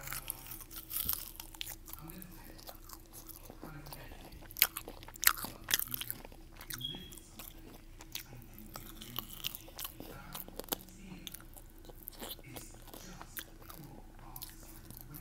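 A person eating close to the microphone: chewing with crisp crunching bites, the loudest crunches coming about four and a half to six seconds in.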